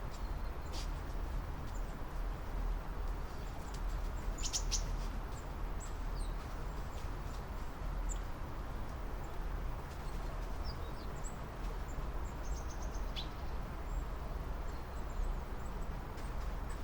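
Several small songbirds chirping and trilling in short, scattered high calls, with a cluster of rapid notes about four to five seconds in and a quick trill near thirteen seconds, over a steady low rumble and background hiss.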